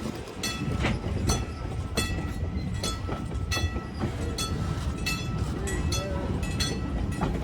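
Railway cars rolling past on jointed track: a steady low rumble with regular clicks from the wheels crossing rail joints, about two a second.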